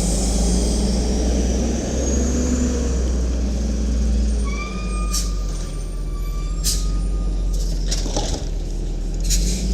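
Garbage truck's Cummins L10G natural-gas engine running with a steady low rumble. A thin high whine holds for about three seconds midway, and a few sharp clicks or knocks sound along the way.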